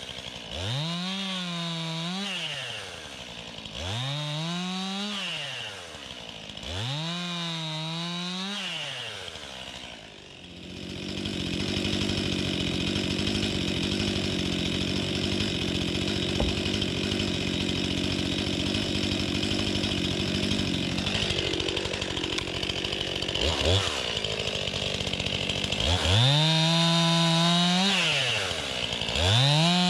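STIHL MS261 two-stroke chainsaw revved in four quick throttle blips. It is then held at steady high revs under load for about ten seconds, cutting through wood. Its revs drop off, and it is revved twice more near the end.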